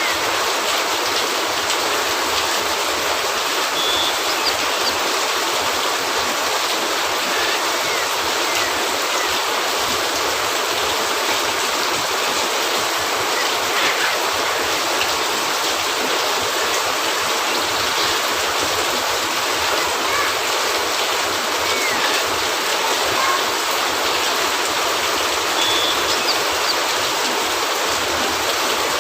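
Steady rain, an even hiss that never lets up, with a few faint scattered clicks.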